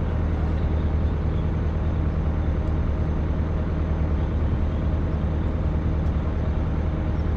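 Excavator's diesel engine running steadily with a low, even drone that holds one pitch.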